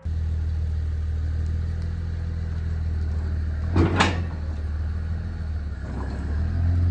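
Yanmar VIO50 mini excavator's diesel engine running steadily, with two sharp metallic knocks close together about four seconds in.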